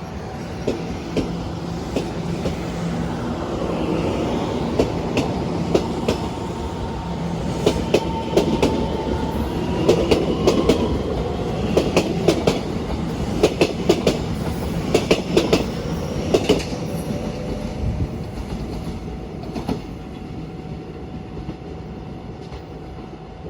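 Train running on the rails: a steady rumble with clusters of sharp clicks as the wheels pass over rail joints, easing off near the end.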